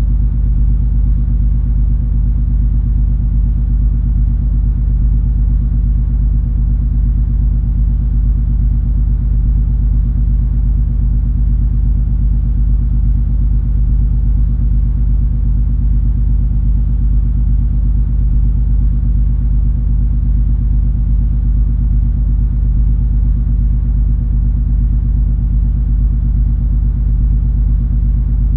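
Steady low drone of the cruise ferry MS Color Magic's engines heard on board, a deep rumble with a constant hum and no change in pace.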